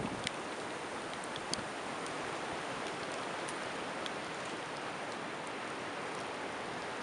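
Steady hiss of a blizzard in a forest, wind driving snow through the trees, with a few faint scattered ticks.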